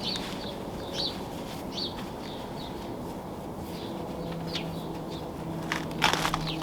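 Songbirds chirping outdoors: short high chirps repeated roughly once a second. About four seconds in a low steady hum comes in, and near the end several sharp, loud cracks break in.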